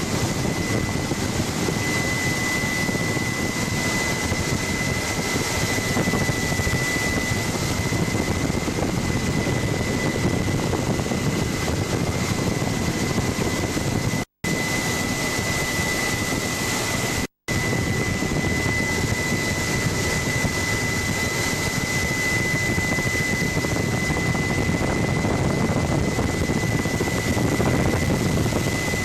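Helicopter in flight heard from on board: steady rotor and engine noise with a thin, steady high whine. The sound cuts out completely twice, very briefly, about three seconds apart midway through.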